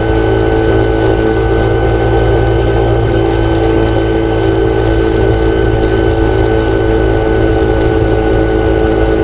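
An engine running at a steady speed: a constant hum with a thin steady whine above it.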